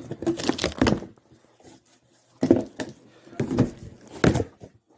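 A cardboard vacuum-cleaner box being opened and its packaging handled: a series of short knocks, thunks and scrapes in several bunches.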